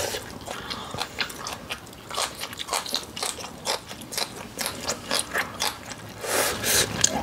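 A person chewing crunchy food close to the microphone: a quick run of crisp crunches, several a second, growing louder near the end.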